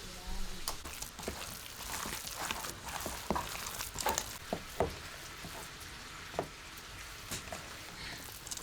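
Food frying in a pan of oil, with irregular crackles and sharp pops over a steady sizzle.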